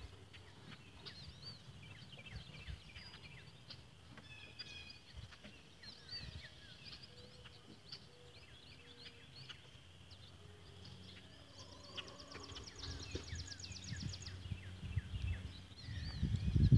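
Small birds chirping and singing, many short quick calls overlapping, with a rapid trill lasting about two seconds near the end.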